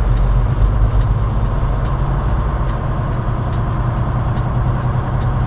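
Semi truck's diesel engine idling steadily, with a faint regular ticking about twice a second.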